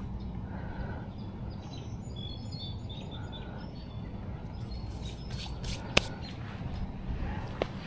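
Small birds chirping in short high calls over a steady low outdoor rumble, with a sharp click about six seconds in.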